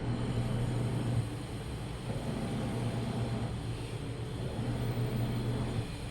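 Washing machine running: a low motor hum over a rumble that swells and eases every couple of seconds.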